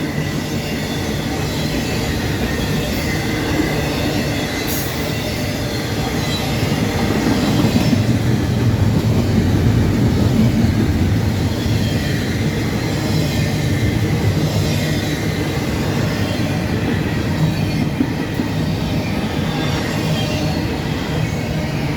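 A train rolling past on the rails: a steady rumble of railroad cars and wheels, with faint high wheel squeal over it.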